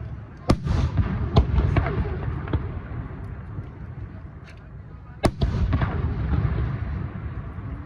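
Aerial fireworks bursting: sharp booms about half a second in and again just after five seconds, with smaller cracks in between over a continuous low rumble.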